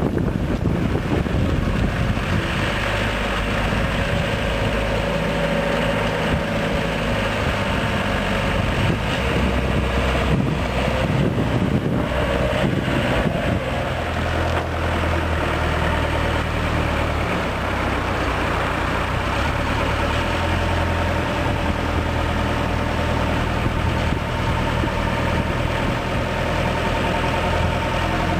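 Tractor engine running steadily during fieldwork, its low note shifting up and down a little every few seconds.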